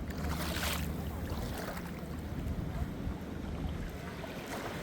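Wind buffeting the microphone at the seashore, with small waves washing in: one brief rush of water about half a second in and another near the end.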